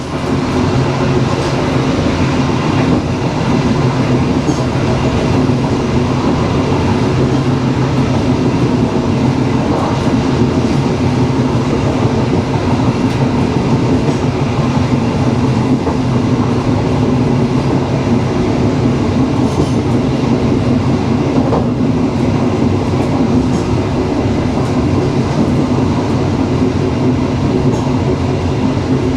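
Dharmawangsa passenger train running steadily along the track, a continuous even noise of the wheels and carriages with a steady low drone.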